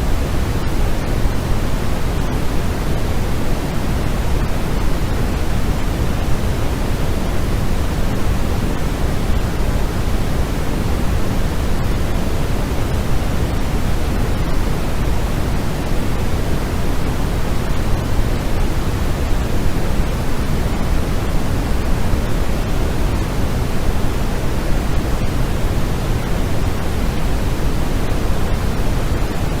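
Steady white noise of the kind played for sleep: an even, unbroken hiss, heavier in the low end, that does not change.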